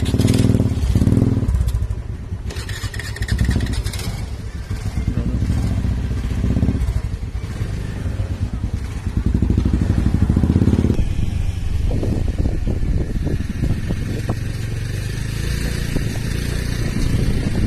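Motorcycle engine running on the move, swelling several times as the rider opens and eases the throttle. From about two-thirds of the way through come many short knocks and rattles over a steady hiss.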